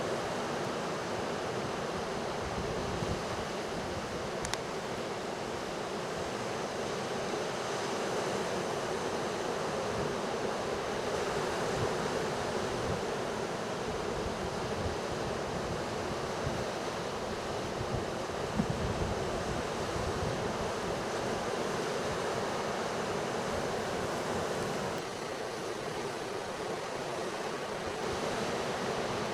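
Ocean surf breaking and washing in a steady rush, with wind rumbling on the microphone at times.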